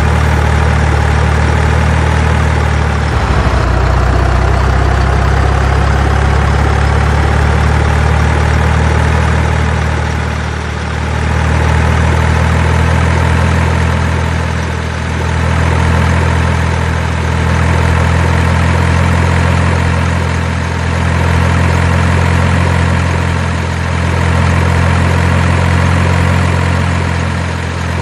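A truck engine idling steadily with a low rumble, its loudness swelling gently every few seconds.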